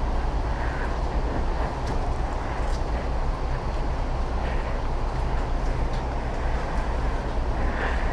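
Motorcycle engine running with steady road and wind noise, an even rumble without change.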